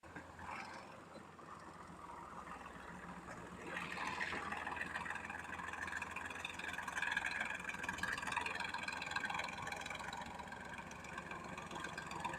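KhTZ T-150 tractor's YaMZ-236 V6 diesel engine running steadily, growing louder about four seconds in.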